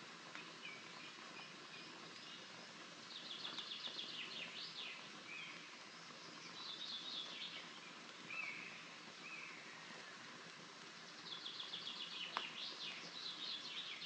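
A songbird sings three rapid trilling phrases, with softer chirps between them, over a steady hiss. A single sharp click comes about twelve seconds in.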